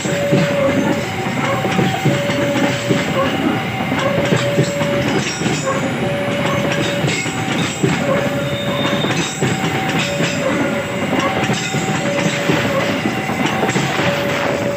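A passing train's wheels clatter and rumble over the rails, with frequent short knocks. Over it, the level-crossing warning alarm sounds a two-tone signal: a lower and a higher note take turns, each held just under a second.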